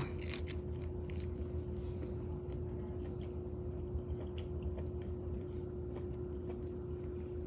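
Close-up chewing and wet mouth sounds of a person eating smoked barbecued meat, with irregular smacking clicks, over a steady hum.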